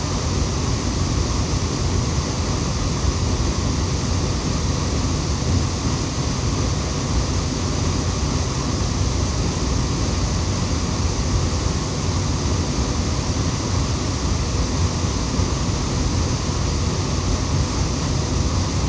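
Waterfall rushing in a steady, unbroken roar of white water.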